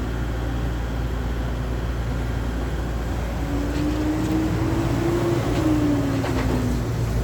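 A steady low rumble with a vehicle's engine drone that rises and then falls in pitch over about three seconds in the second half, as it passes by. A few light knocks sound while it passes.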